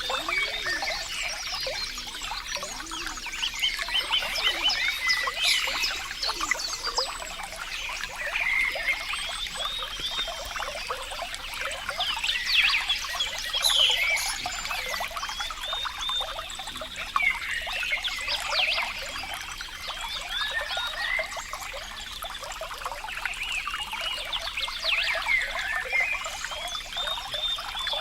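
Water trickling and bubbling steadily, with many quick gurgling blips over a continuous splashing wash.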